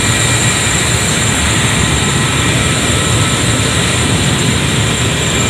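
Steady, loud industrial machinery noise in a power plant: a continuous low rumble with a thin high whine over it, unchanging throughout.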